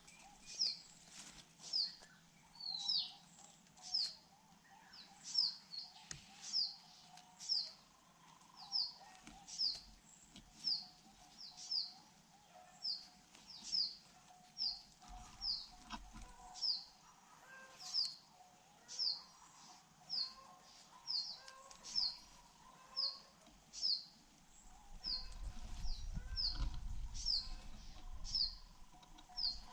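A bird repeating a short, high chirp about once a second, some of them in quick pairs. A low rumble comes in about 25 seconds in.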